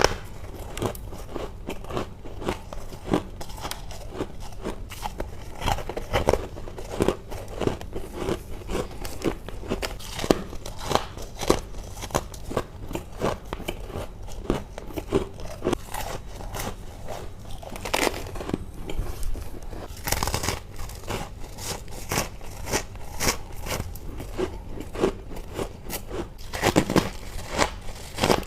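Close-miked biting and crunching into chunks of humidifier freezer frost: a rapid, irregular run of crisp crunches and crackles, several a second, with louder bites now and then.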